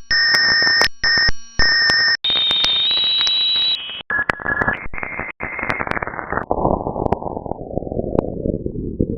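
Shortwave static through a web-based software-defined receiver being retuned, with steady whistles from carriers in the first few seconds and brief dropouts as the tuning jumps. The receiver's filter is then narrowed, so the hiss gets duller and lower, ending as a low rumble.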